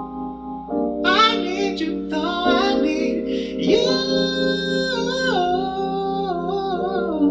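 Live singer vocalizing wordless held, sliding notes over sustained instrumental chords, the voice coming in about a second in.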